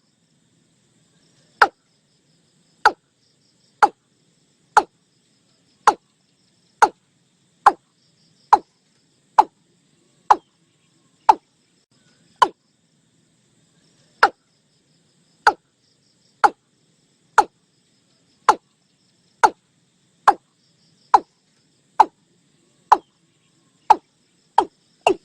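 Watercock calling: a series of short, sharp 'kok' notes repeated about once a second, coming faster near the end, over a faint background of insects.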